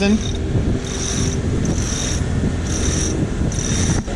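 Main halyard being hauled hand over hand to raise a sailboat's mainsail, the line running through its blocks and around the winch drum in a pull about once a second, over the steady low hum of the boat's engine.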